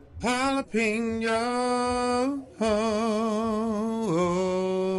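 A man singing a drawn-out "jalapeño" in long held notes with vibrato. There is a short break partway through, and the pitch steps down near the end.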